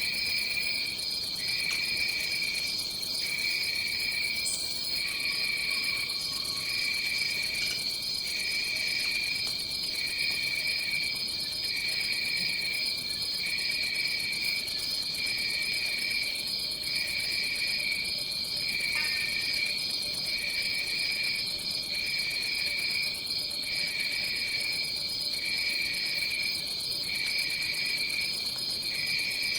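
Tropical forest insect chorus: a steady high-pitched trill with a lower buzzing trill over it that pauses briefly about every second and a half.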